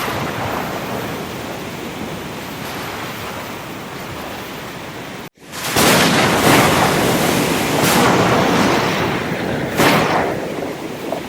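Sea surf rushing steadily. About halfway in the sound cuts out for an instant, then comes back louder with several sharp crashes.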